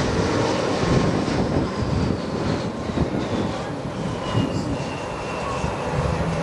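Aircraft engines running as a plane passes, a thin high whine falling slowly in pitch while the overall sound slowly fades.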